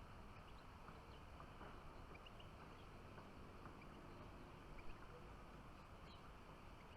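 Near silence: faint outdoor background with scattered faint, short high chirps of small birds, and a soft thump about five seconds in.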